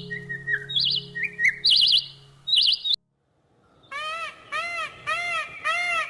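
A small bird chirping in quick high trills over a steady low musical drone, then after a brief silence a different bird repeating a short call that rises and falls in pitch, about twice a second.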